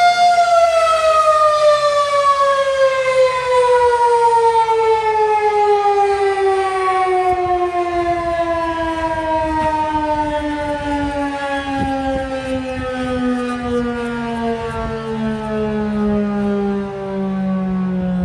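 Outdoor tornado warning siren winding down. Its single held tone begins falling right at the start and keeps sliding slowly lower in pitch as the rotor spins down.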